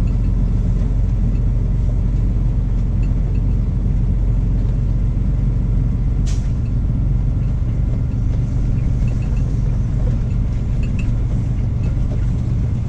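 Semi truck running steadily with a low rumble, with one short hiss about six seconds in.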